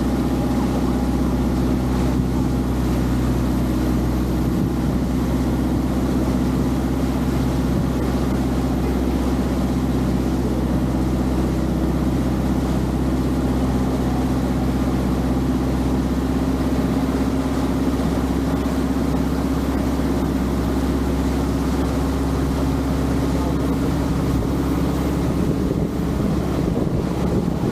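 Longtail boat engine running steadily under way, with wind and water rushing past. The engine's steady note breaks up near the end.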